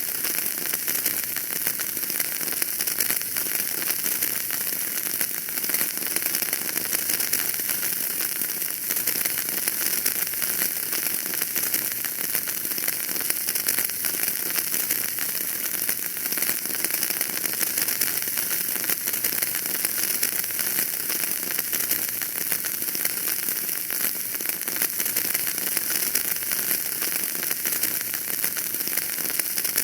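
Wood fire crackling steadily in a fireplace: a dense, continuous patter of small pops and snaps over a soft hiss, with no single louder event.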